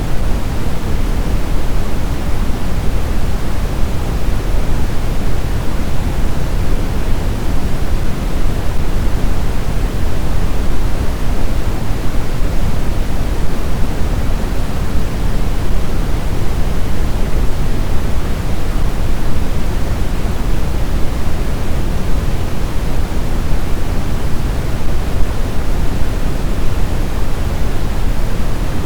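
Steady snowstorm wind noise: an even, deep rushing hiss, heaviest in the low end, with no distinct gusts or howls.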